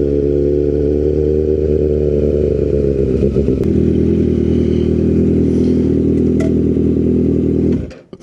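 Sport motorcycle engine running steadily at low revs. Its pitch drops a little about three and a half seconds in, and it stops abruptly near the end.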